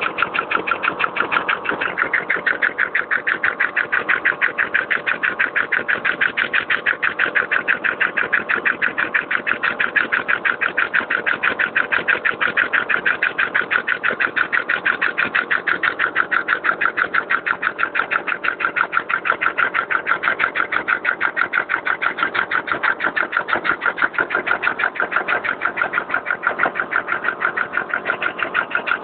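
Two-stroke motorcycle engine converted to run on compressed air, running steadily with a rapid, even beat of strokes.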